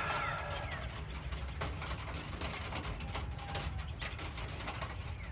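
Light rain pattering, with a few faint short bird chirps.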